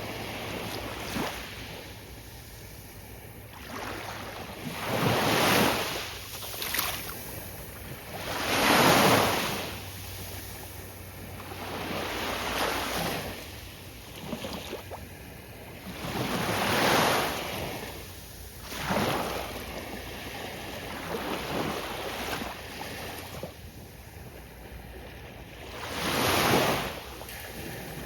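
Gentle ocean waves breaking on a beach: a wash of surf that swells and fades every few seconds, some breakers louder than others.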